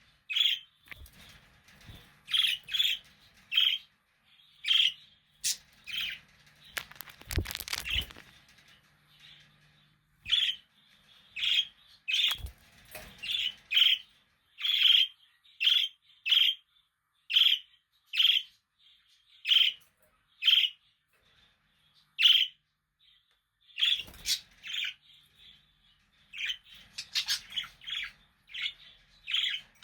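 Budgerigars chirping in a steady run of short, sharp chirps, about one or two a second, with a brief burst of rustling noise about seven seconds in.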